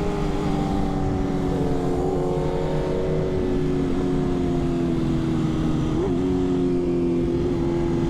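Sport motorcycle engine running at a steady speed, its pitch falling slowly as the bike eases off, with a brief rev blip about six seconds in.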